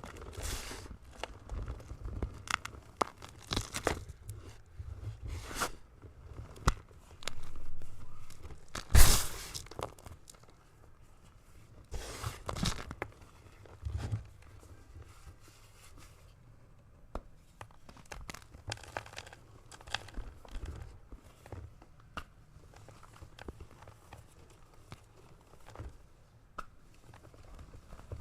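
A rectangular block of gym chalk being crushed, crunching and crumbling into powder in a run of sharp crackles. The loudest crunches come about eight to nine seconds in and again around twelve seconds, with sparser, quieter crumbling in the second half.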